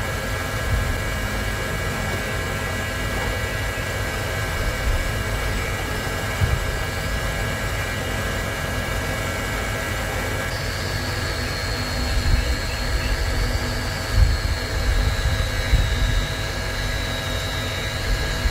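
A steady machine hum with a low rumble, and a high whine that comes in about ten seconds in.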